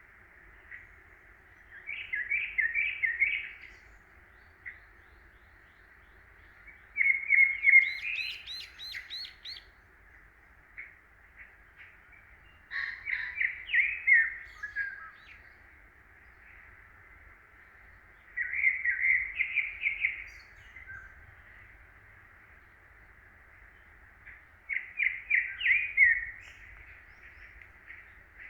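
A songbird singing: five phrases of rapid, chirping notes, each lasting about two seconds, repeated every five to six seconds.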